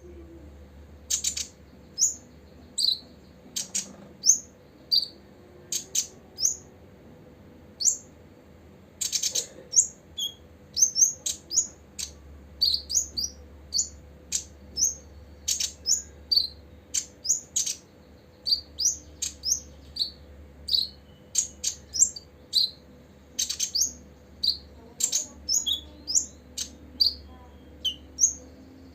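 Copper-throated sunbird calling: an irregular run of short, high, sharp chips and quick twittering notes, one to three a second, with a few louder clicky chips among them.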